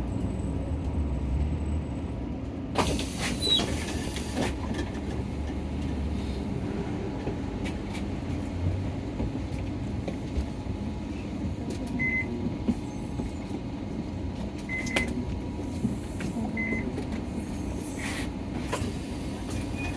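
Inside a Nissan Diesel city bus under way: the diesel engine runs with a steady low rumble of engine and road noise. A brief hiss comes about three seconds in, and three short high beeps sound in the second half.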